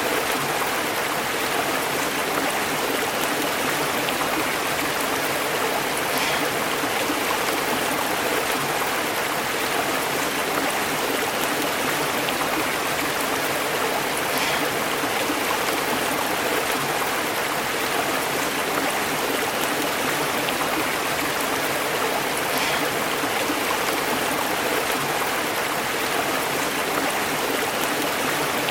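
Stream water flowing and bubbling over rocks, a steady continuous burble.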